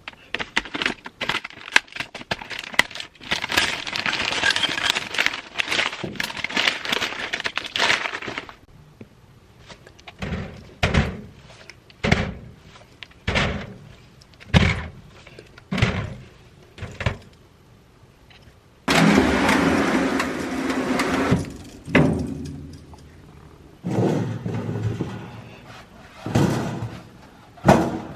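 Kitchen restocking sounds: crinkling and rustling with clicks for several seconds, then a string of knocks about a second apart as items are set down, then a few seconds of hiss and more knocks near the end.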